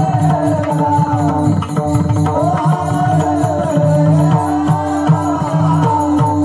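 Marathi kirtan music: a steady held drone and a winding melody over repeated hand-drum strokes.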